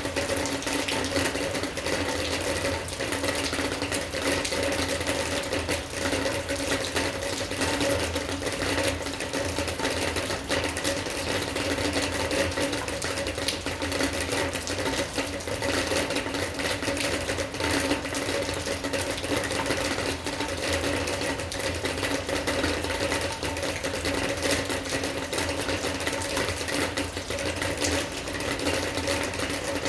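Steady rain, a dense, even spatter of countless drops hitting a surface, with a faint steady hum underneath.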